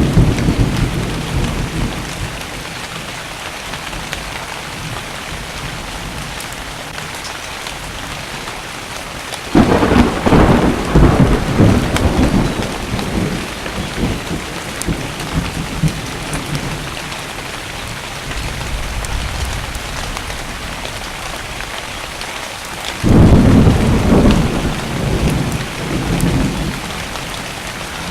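Steady rain falling through a thunderstorm, with two rolls of thunder: one breaks suddenly about a third of the way in and one near the end, each rumbling for several seconds before fading back into the rain. The tail of an earlier rumble dies away at the start.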